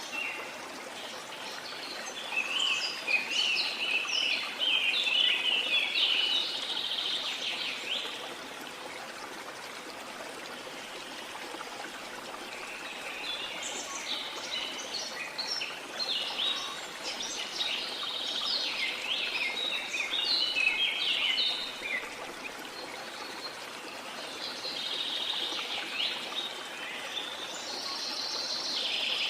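Several birds chirping and singing in three long, busy bouts over a steady rush of flowing water.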